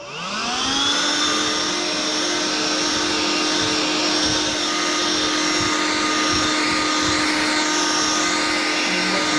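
Handheld unit of an Electrolux Ergorapido ERGO12 cordless stick vacuum switched on and vacuuming crumbs from a tabletop. Its motor spins up over about the first second, rising in pitch, then holds a steady whine.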